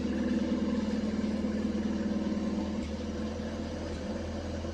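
Small diesel tractor engine running steadily at idle, a little quieter after about three seconds.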